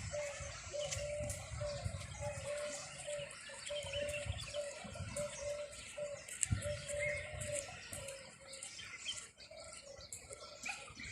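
A bird calling a short, even note over and over, about twice a second, with scattered clicks and a low rumble underneath.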